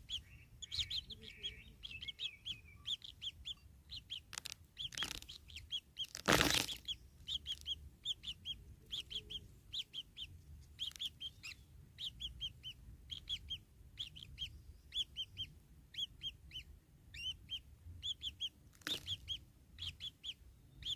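Kingfisher chicks giving short, high chirping calls in quick runs of three to five, over and over. A few brief rustling noises break in, the loudest about six seconds in.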